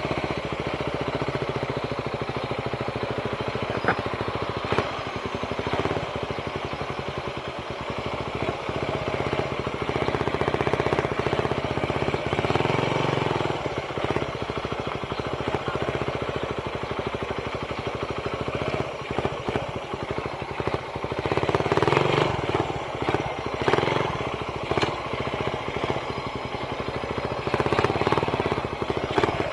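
Suzuki Raider 150 single-cylinder four-stroke motorcycle engine running while the bike is ridden, its note rising and falling a few times.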